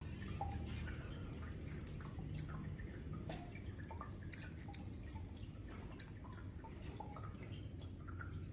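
Finches chirping: short, high, down-slurred chirps at irregular intervals, a few louder than the rest, over a low steady hum.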